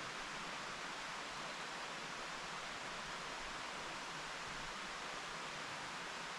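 Mountain stream flowing steadily: a constant, even rush of water.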